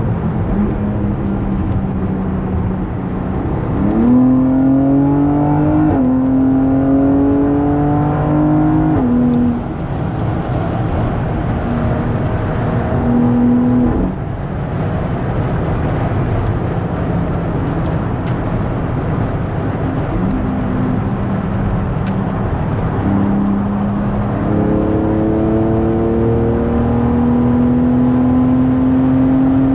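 Car engine accelerating hard through the gears, over steady road and tyre noise. Its pitch climbs and drops back at upshifts about four, six and nine seconds in, eases briefly around fourteen seconds, then climbs steadily through the last six seconds.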